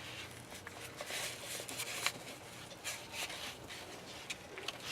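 Faint rustling and a few small clicks of paper and string being handled and threaded by hand.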